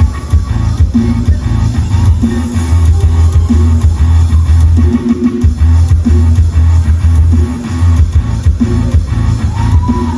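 Loud music with electric guitar and a heavy, booming bass line, played through a large PA sound system.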